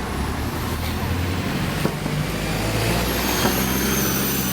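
Optare Solo single-deck bus running on the road, heard from inside: a steady engine drone with road noise, and a faint high whine rising in pitch near the end.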